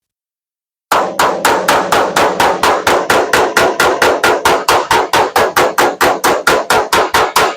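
Body hammer rapidly tapping out a dent in a pickup's sheet-metal bed panel, about five even strikes a second with a metallic ring, starting about a second in.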